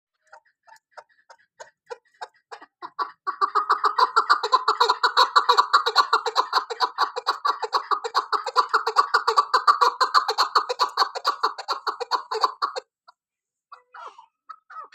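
Female chukar partridge calling: a rapid series of short repeated notes, sparse at first and then building into a dense run of about six notes a second that stops suddenly, followed by a few scattered notes.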